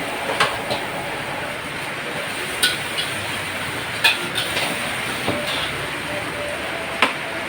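Steady rushing noise of heavy rain, with a few sharp clicks standing out above it.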